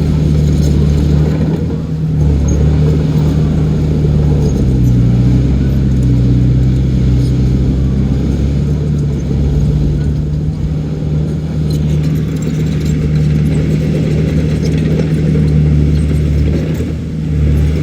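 Heavy diesel engine of earthmoving machinery running steadily under load, its pitch and level shifting a few times, with a brief dip about two seconds in and another near the end.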